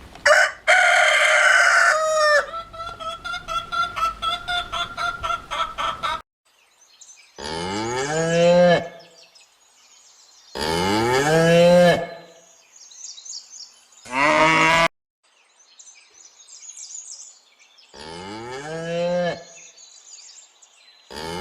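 A rooster crows, its call falling away at the end, then a quick run of clucks about five a second. Cattle then moo four times, each moo rising in pitch, with faint bird chirps between them.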